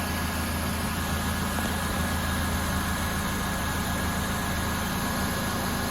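Nissan Versa Note's four-cylinder engine idling steadily, a low even drone with a faint steady whine above it.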